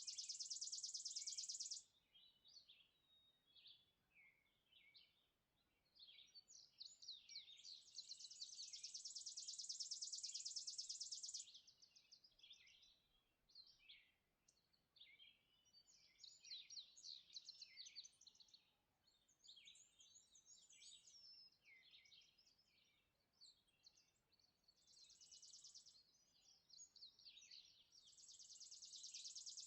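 Songbirds singing a dawn chorus, faint: long, even trills of two to four seconds repeat several times, with many short chirps and quick sliding notes between them.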